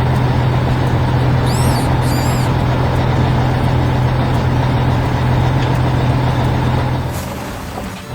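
Heavy construction vehicle's engine running with a steady low hum. It dies away about seven seconds in and starts up again at the very end. Two brief high chirps sound about a second and a half in.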